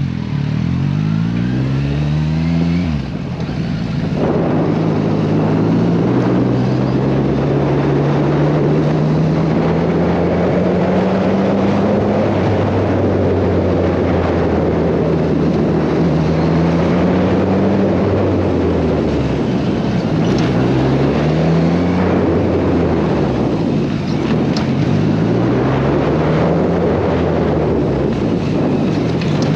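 Kawasaki Versys 1000 inline-four engine pulling the motorcycle along, the engine note climbing through the gears and dropping at each shift several times, with a long steady cruise in the middle. Heavy wind rush runs under it.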